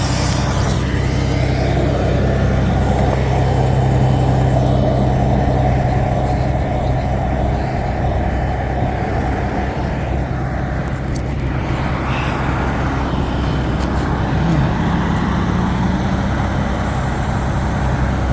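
Steady motor-vehicle noise on a freeway: engines running with a low, continuous hum over traffic, and a brief rise in engine pitch near the end.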